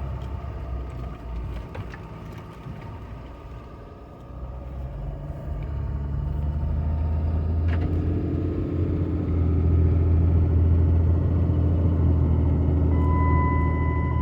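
6.7 L Cummins turbo-diesel in a 2007 Ram 3500 running, growing louder from about four seconds in as the truck sets off under load, then holding steady. A click comes about halfway through, and near the end a steady high-pitched tone starts.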